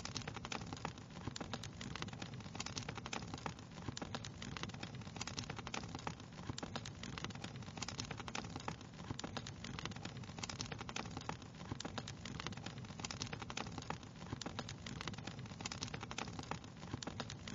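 Wood fire crackling steadily: dense, irregular small pops and snaps over a soft low rumble of flame.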